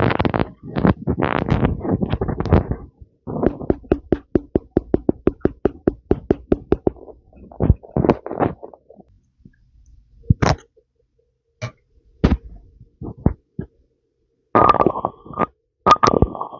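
ASMR mouth sounds close to a mini microphone: wet lip smacks and puffing lip pops. A fast, even run of pops at about seven a second follows a dense cluster of smacks, then scattered single pops and two short hissy bursts near the end.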